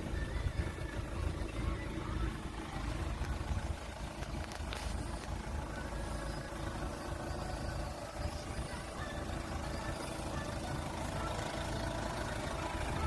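Turbodiesel engine of a 2007 Chevrolet Captiva (Daewoo Winstorm) running steadily with a low rumble.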